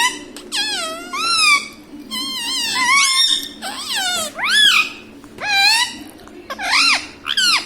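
Indian ringneck parrot vocalising: a rapid string of about nine loud, high-pitched calls, each arching up and then down in pitch.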